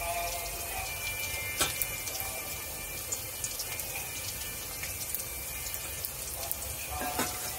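Battered pumpkin-flower and potato pakoras sizzling in shallow oil in a wok: a steady hiss dotted with small crackles and pops, one louder pop about a second and a half in.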